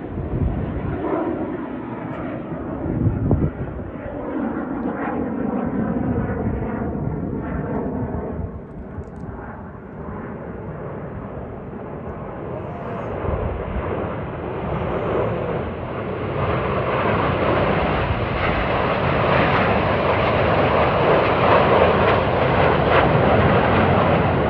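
Jet aircraft of the Frecce Tricolore (Aermacchi MB-339 trainers) flying past, with a sweeping, phasing whoosh in the first few seconds. The sound dips about eight seconds in, then builds steadily, loudest near the end as more jets approach.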